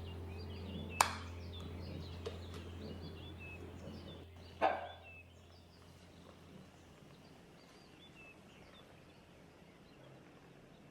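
Small birds chirping in short, scattered calls over quiet outdoor ambience, with a low hum that fades out about two-thirds of the way through. Two sharp knocks stand out, one about a second in and a louder one near the middle.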